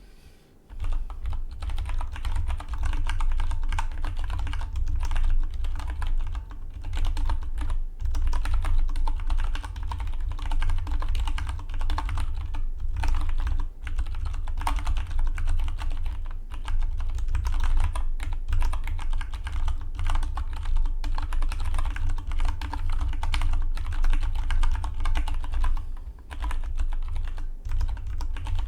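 Fast, continuous typing on a Dygma Defy split mechanical keyboard: a rapid patter of key clicks that starts about a second in and pauses briefly a few times between runs of words.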